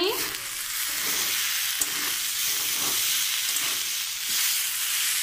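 Cauliflower, potato and peas masala sizzling in an aluminium kadai as a spoon stirs and scrapes through it: a steady frying hiss. The filling is cooked through and ready.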